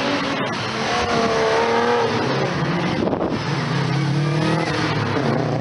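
Loud car engine revving, its pitch rising and falling, then holding a lower steady note near the end.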